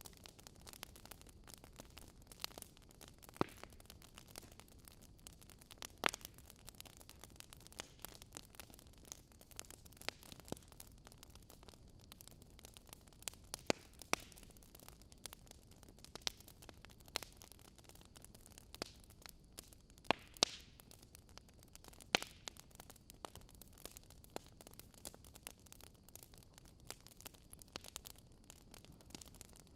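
Fire crackling: irregular sharp pops and snaps, a few louder than the rest, over a faint steady hiss.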